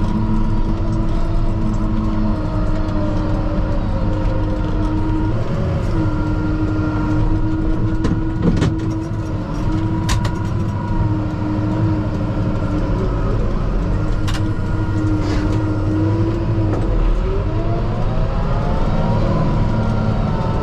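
Kubota M5-091 tractor's diesel engine running steadily, heard from inside the cab, with a steady whine over the engine note. The pitch sags and recovers twice as the engine takes load. Several sharp clicks or knocks come through in the middle.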